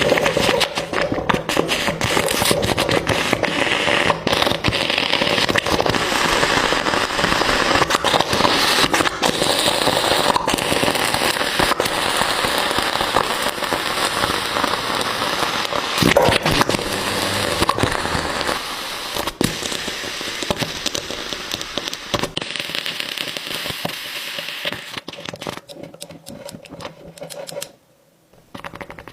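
A hot ball sizzling and crackling in green gel, with many sharp pops over a steady hiss. The crackling thins out over the last several seconds and fades almost to nothing near the end.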